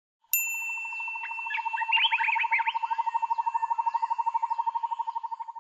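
Intro sound effect: a bright ding, then bird-like chirps over a fast, even trill held at one pitch, cutting off suddenly at the end.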